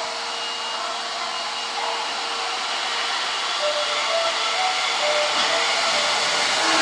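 Osaka Metro Series 25 subway train running, a steady rushing noise that grows a little louder near the end, with a few short high wheel squeals in the middle.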